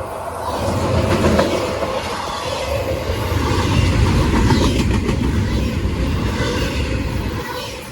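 CSX intermodal freight train's cars rolling past, a steady low rumble with the wheels clicking now and then over the rails.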